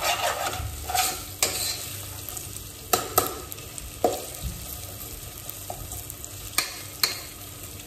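Green chillies and onion-spice masala frying in oil in a pressure cooker, sizzling steadily as a spoon stirs them, with several sharp clinks of the spoon against the pot.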